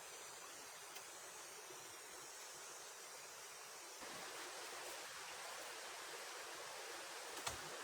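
Steady hiss of rain falling in the forest, a little louder from about four seconds in, with one sharp click near the end.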